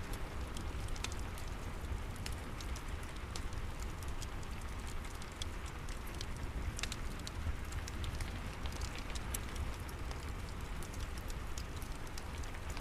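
Steady rain falling, mixed with a fireplace crackling, with scattered sharp pops and snaps throughout.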